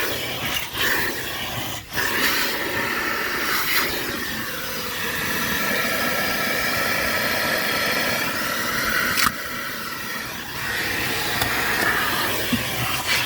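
Car wash vacuum running steadily, its hose nozzle sucking at the car's interior with a hissing rush of air over a motor whine, plus a few brief knocks as the nozzle moves.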